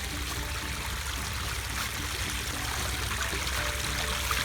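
Artesian well water pouring out of a small water feature in a steady splashing flow, about 50 gallons a minute.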